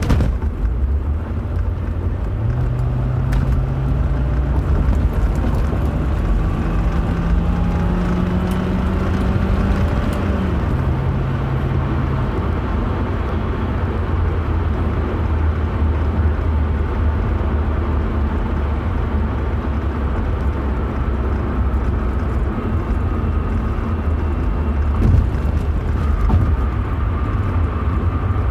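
Car on the move: a steady low rumble throughout, with an engine tone that climbs for several seconds, then drops suddenly about ten seconds in and fades out shortly after.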